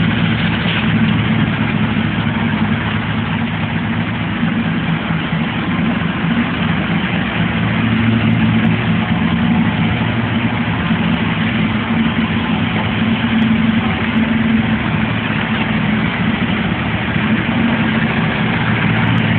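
The 305 small-block Chevrolet V8 of a 1985 Pontiac Firebird Trans Am idling steadily, with a low, even engine note.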